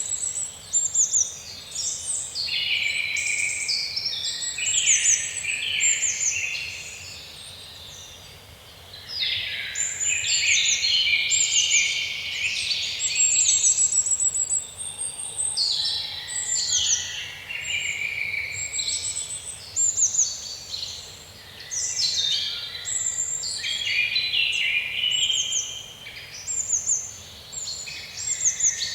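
Several songbirds singing at once in woodland, overlapping chirps and rapid trills, continuous with a brief lull about eight seconds in.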